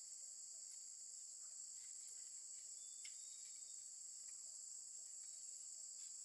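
A steady, high-pitched chorus of insects, crickets or cicadas, buzzing without pause, with a few faint ticks under it.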